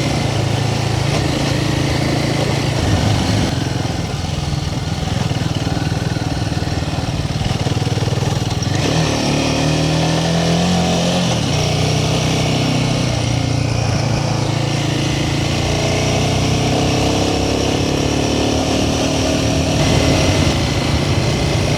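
Royal Enfield Himalayan 450's single-cylinder engine running steadily as the motorcycle is ridden, its pitch shifting up and down around the middle with throttle and gear changes.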